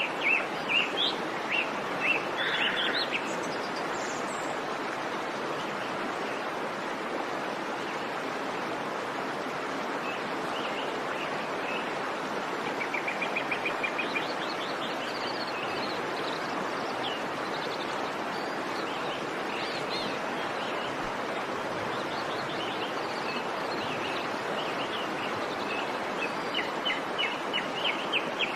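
Wild birds chirping over a steady rushing background. Short chirps cluster at the start, a quick trill comes about halfway through, and scattered chirps follow to the end.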